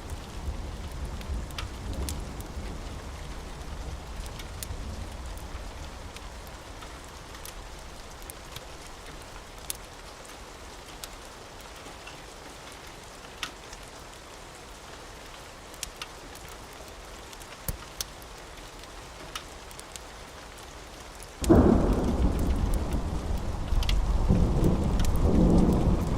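Steady rain with scattered sharp crackles from a wood fire. A low thunder rumble fades away over the first few seconds, and a loud roll of thunder breaks in suddenly about 21 seconds in and rumbles on to the end.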